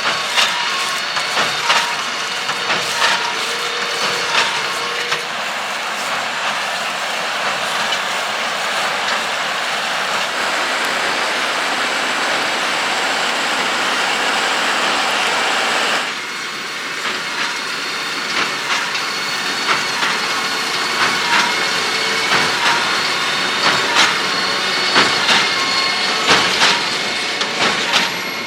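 Claas Quadrant 5300RC large square baler at work behind its tractor, a steady mechanical clatter with repeated sharp knocks. The sound changes abruptly about halfway through.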